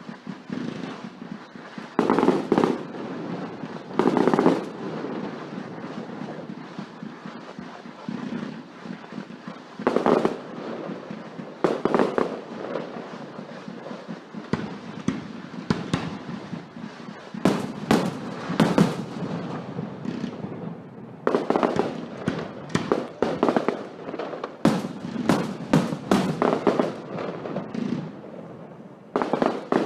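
Fireworks going off: loud bangs with crackle between them, a few spread out at first, then a rapid barrage of bursts in the second half.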